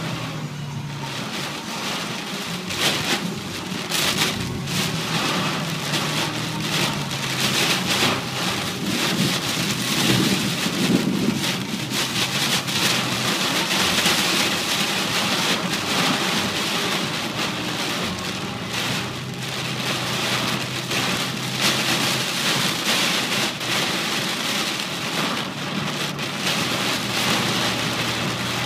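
Heavy rain pelting a car's roof and windscreen, heard from inside the cabin as a dense, steady hiss dotted with many sharp drop impacts and splashes. A low steady hum runs underneath.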